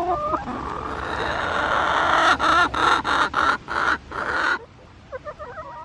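A bird's loud, harsh squawking call that breaks into a run of short squawks, followed by quieter warbling calls near the end.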